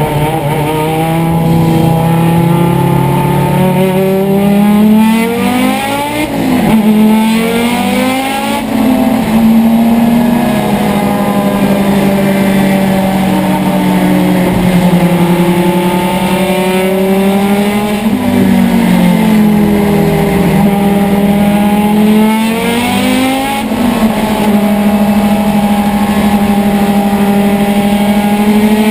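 1981 Audi Urquattro race car's 2.2-litre turbocharged five-cylinder engine at race pace, heard from inside the cabin, its pitch climbing and dropping several times through gear changes. The engine computer was cutting the ignition under acceleration to protect the engine from too-low oil pressure.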